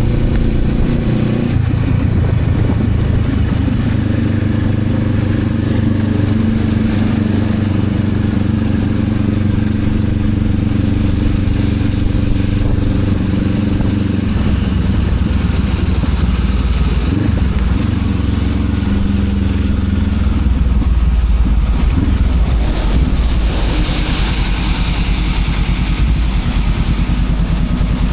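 Honda CB500X's parallel-twin engine running steadily while the motorcycle is ridden, its note changing about halfway through. A hiss rises over it later on.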